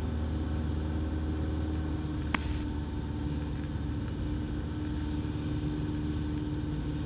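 Steady drone of a Cessna 172's piston engine and propeller in the cockpit at approach power on final, with a single short sharp click about two and a half seconds in.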